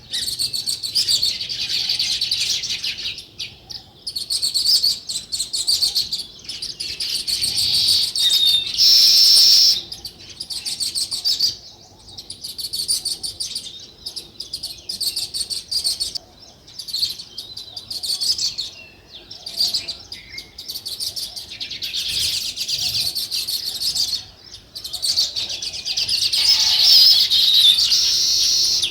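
House sparrows chirping rapidly and almost without pause, with a few brief lulls and the loudest bursts of chirping around the middle and near the end.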